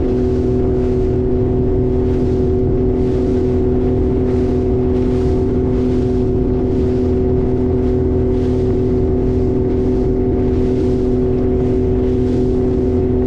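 Motorboat engine running at a steady cruising speed with a deep rumble, under a hiss of wind and water that swells and fades about every two-thirds of a second.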